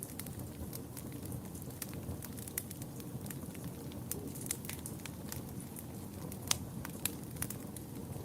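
Wood fire burning with a steady low rumble and frequent, irregular sharp crackles and pops, a few louder pops in the second half.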